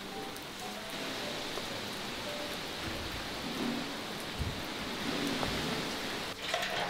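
Steady rain pattering on greenhouse glass. Near the end, a short knocking clatter as an aluminium stepladder is handled.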